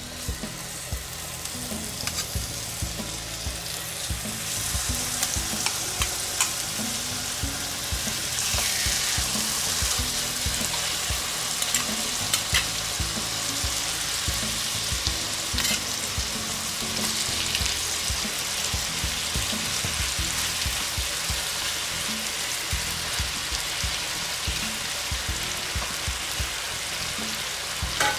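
Thin-sliced seasoned chicken breast sizzling in melted butter in a frying pan, the sizzle building over the first few seconds and then holding steady. A few sharp clicks of a utensil against the pan.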